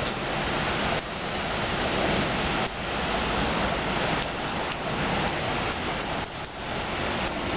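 Heavy rain hissing steadily, dropping off sharply a few times.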